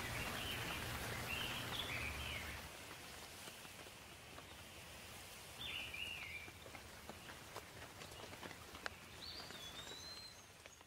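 Steady patter of rain with birds chirping briefly three times over it, the rain louder for the first couple of seconds.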